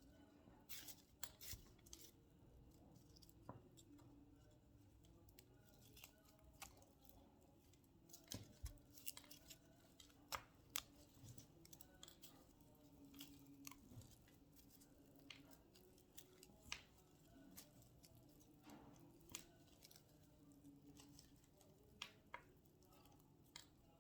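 Faint, scattered snips and clicks of scissors and hands working natural raffia and rope cord, irregular and a second or so apart, over a faint steady low hum.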